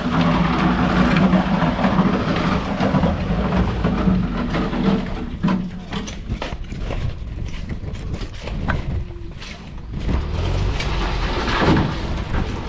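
An engine running steadily for about the first five seconds, then dropping away under scattered knocks and clatter.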